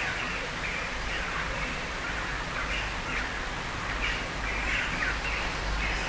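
Bird chirps repeating irregularly, one or two a second, over a steady low outdoor rumble.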